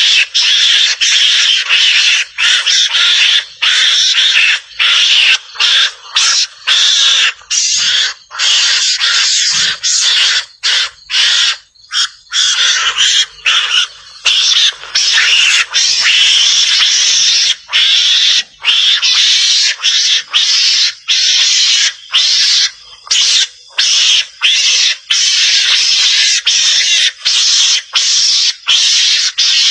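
Lure recording of garangan (Javan mongoose) calls: loud, harsh, rasping chatter in rapid bouts separated by many brief breaks, with a slightly longer pause just before the middle.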